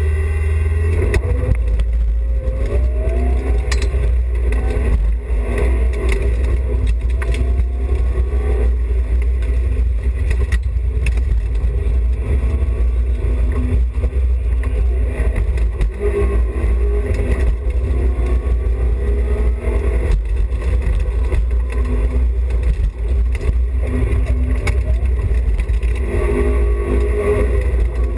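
BMW E30 316i rally car's 1.6-litre four-cylinder engine running hard on a stage, its pitch rising and falling as it revs up and changes gear, over a heavy, steady low rumble of road and wind noise.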